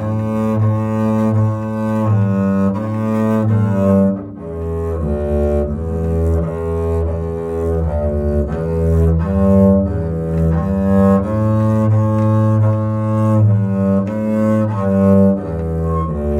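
Double bass bowed, playing a slow legato melody of held notes that change every half second to a second.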